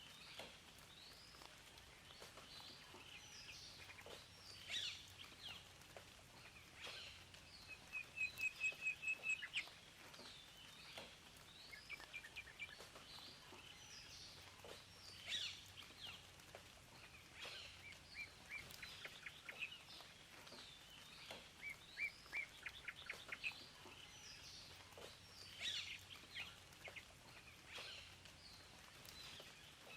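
Several wild birds calling and singing: short rapid trills of repeated notes alternating with scattered chirps and down-slurred whistles, over a faint steady background hiss.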